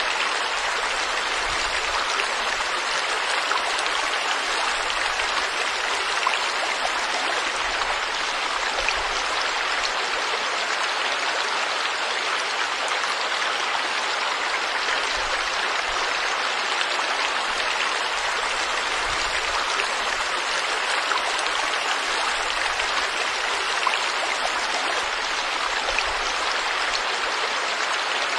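A stream of water rushing and splashing in a steady, unbroken flow.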